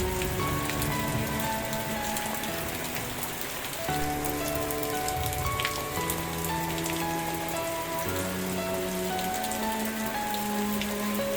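Steady rain falling on a surface, a continuous hiss with scattered drop ticks. Under it plays soft, slow music of held notes whose chord changes every second or two.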